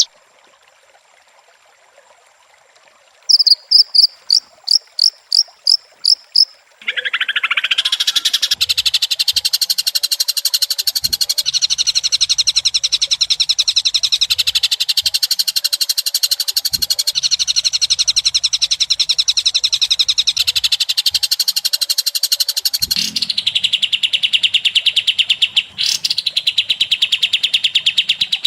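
White-rumped shama singing: after a quiet start, a run of about ten loud, sharp, evenly repeated high notes, then a long, fast, unbroken high trilling chatter that dips briefly near the end.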